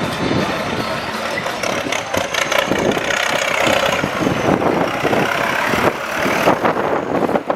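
Diesel engine of a heavy vehicle running, with an uneven clatter.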